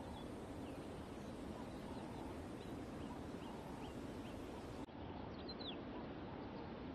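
Quiet savanna ambience: a steady low hiss with faint, short bird chirps, a run of them a few tenths of a second apart in the middle, and a small group of higher chirps sliding downward after about five seconds.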